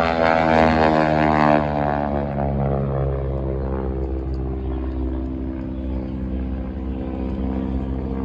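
Propeller-driven aerobatic airplane engine passing by, its drone dropping in pitch over the first few seconds as it goes past, then holding a steady lower drone that eases off slightly.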